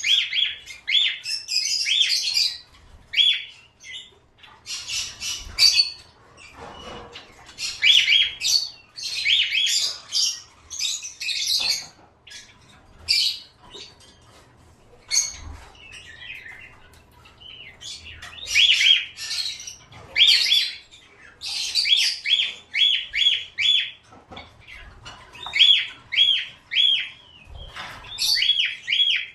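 Small cage birds chirping and squawking in bursts, with quick runs of repeated high chirps at about four or five a second.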